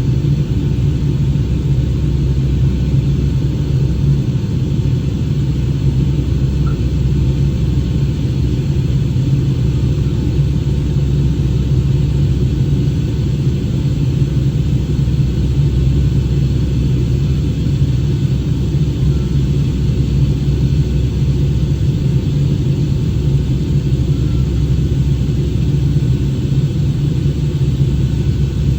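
Boeing 757-200 cabin noise: a steady low rumble of the jet engines and airflow, unchanging throughout.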